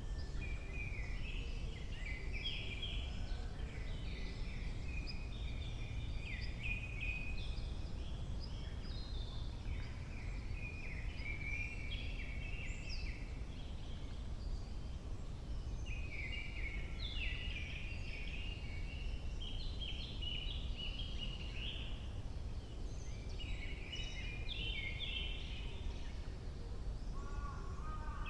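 Forest songbirds singing, with chirping phrases coming every few seconds and short pauses between them, over a steady low rumble.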